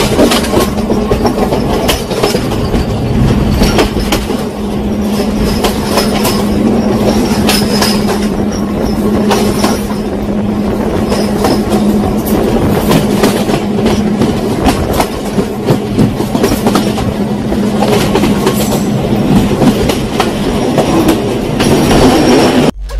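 Sri Lankan passenger train running, heard from an open carriage window: steady rumble and low hum with wheels clicking over the rail joints. The sound cuts off sharply near the end.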